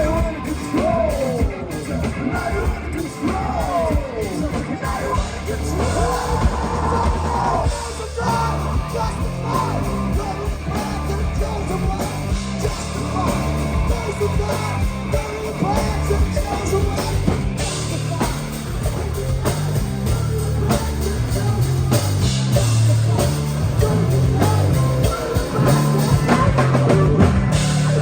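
Live band playing rock music with singing; bending guitar or vocal lines in the first part give way to a stepping bass line under the rest of the band.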